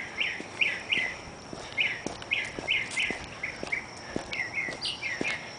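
A bird calling over and over with short, high chirps that slide downward, about two or three a second, with faint light footsteps beneath.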